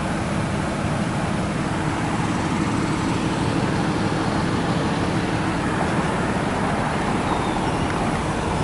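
Steady rumble of vehicle and traffic noise, even throughout with no distinct events.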